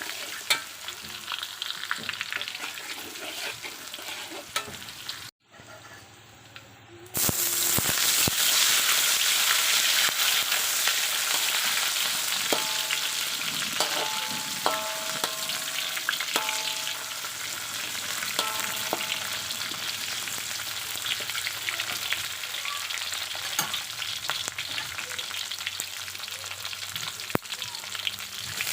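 Food frying in hot oil in a pan and being stirred, a steady sizzle. The sizzle drops away for about a second and a half some five seconds in, then comes back louder, with a few short ringing clinks in the middle stretch.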